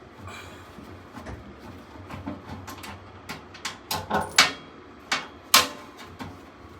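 Irregular metallic clinks and knocks of hand tools and sheet-metal parts as a furnace blower assembly is taken apart, getting louder, with two sharp clanks in the second half.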